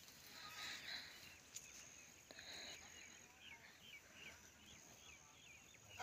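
Near-silent rural outdoor ambience, with faint, distant small birds chirping over and over, a few short chirps a second, through the second half.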